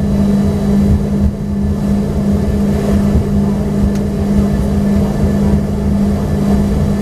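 Cabin noise inside an Embraer ERJ-145XR with its rear-mounted Rolls-Royce AE3007 turbofan engines running: a steady low hum over a rumble.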